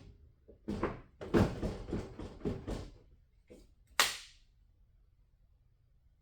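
Knocks and clicks of work on a truck battery being fitted: a quick run of knocks over about two seconds, then one sharp knock about four seconds in.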